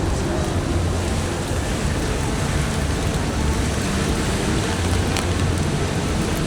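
Steady heavy rain falling, with a low rumble underneath.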